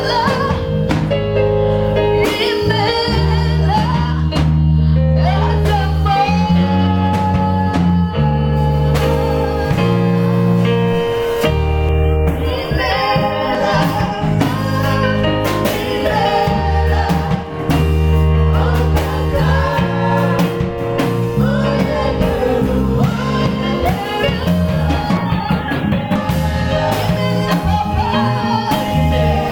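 Gospel music: singing over a band with a heavy bass line and held chords.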